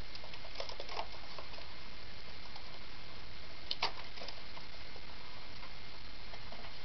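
Scattered light taps and clicks from pet cockatiels, with a cluster about a second in and a louder double tap about four seconds in, over a steady hiss.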